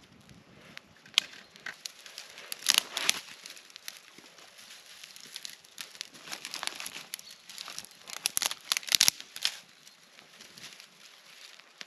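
Irregular bursts of rustling and crackling, like material being handled or crumpled, with a few sharp clicks; the densest bursts come about three seconds in and again near eight to nine seconds.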